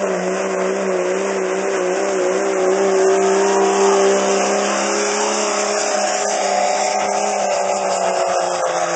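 Modified diesel pickup truck engine at full throttle, pulling a weighted sled, held at high and fairly steady revs.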